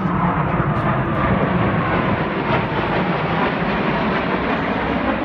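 Blue Angels F/A-18 Hornet jet flying past: a loud, steady jet rush with a whine that falls in pitch over the first few seconds.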